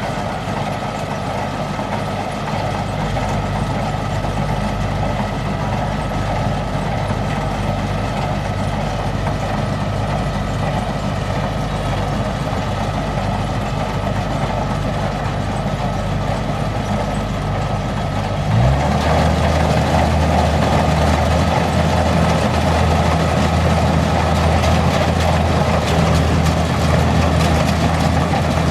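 Kubota combine harvester's diesel engine running steadily. About two-thirds of the way through it suddenly picks up speed and runs faster and louder, then holds there.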